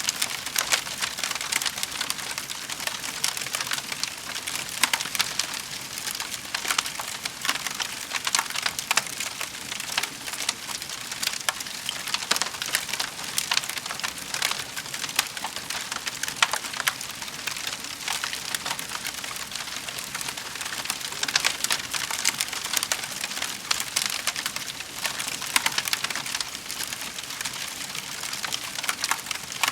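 Wood fire crackling in a fireplace: a dense, steady run of small snaps and pops, with louder pops scattered throughout.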